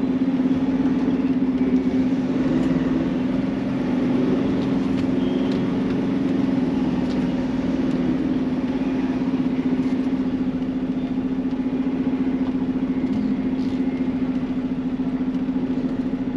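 Semi truck's diesel engine running steadily at low revs.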